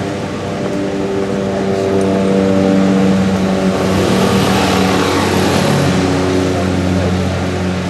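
Street traffic: a motor vehicle engine running with a steady hum, swelling to its loudest around the middle.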